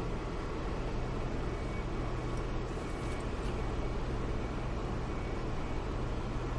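A car being driven, heard from inside the cabin: steady engine and road noise with a constant low hum.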